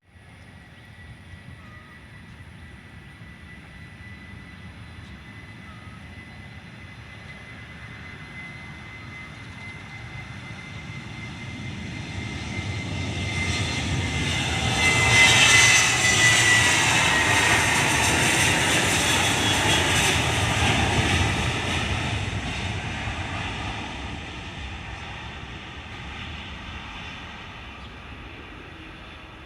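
Airliner's engines passing close by: the sound builds slowly, peaks about halfway through, then fades away, with a high whine that drops in pitch as the aircraft goes past.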